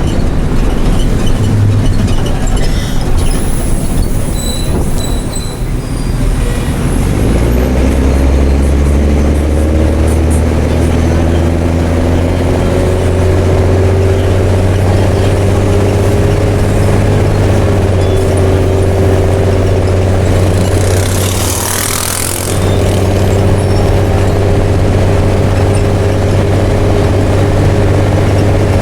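Mercedes-Benz OM366LA turbo-diesel inline-six of a city bus, running on a straight-through exhaust. It pulls under load with its note climbing slowly, then holds steady. About three-quarters through, the engine briefly eases off and a short hiss of compressed air sounds, typical of the air brakes.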